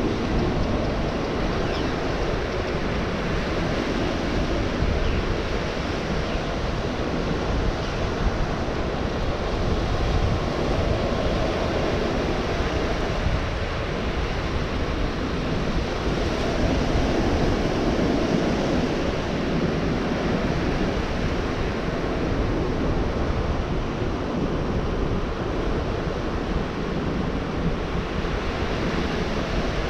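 Gulf of Mexico surf breaking and washing on the shore in a steady, continuous rush that swells now and then, with wind on the microphone.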